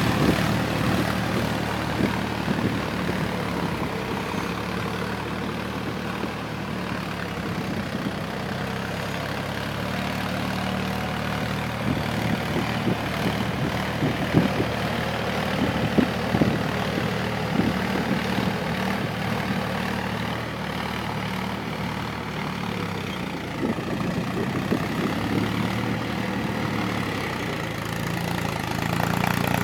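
Tractor engine running steadily at low revs, with a few sharp knocks in the middle and the engine getting louder near the end.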